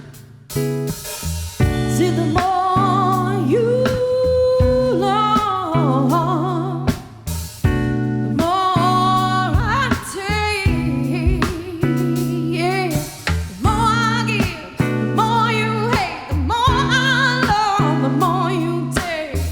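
Live song performance: a voice singing long, wavering melodic runs over guitar and sustained low notes.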